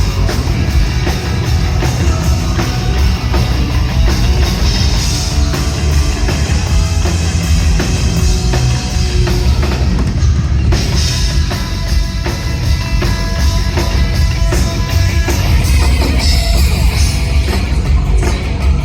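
Hard rock band playing live at full volume, a drum kit pounding over bass and guitars.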